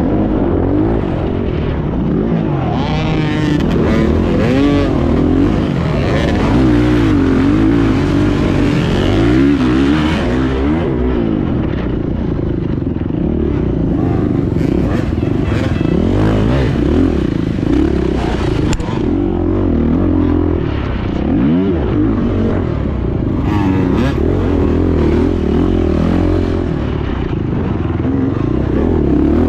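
Beta 430 Race Edition's four-stroke single-cylinder dirt-bike engine being ridden hard, its pitch rising and falling continuously as the throttle is worked, with some clatter and scraping mixed in.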